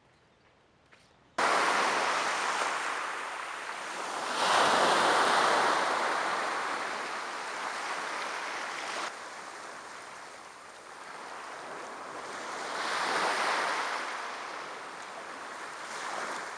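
Sea surf: waves breaking and washing up the shore. The sound starts abruptly after a second or so of near quiet and swells twice.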